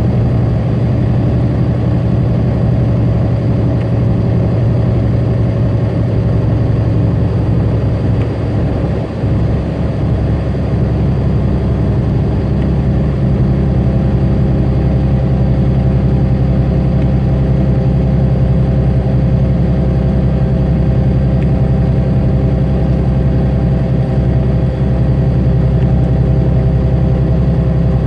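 In-cab drone of a tractor-trailer's diesel engine running steadily at highway speed, with road noise. About nine seconds in, the sound dips briefly and the engine note then settles at a slightly different pitch.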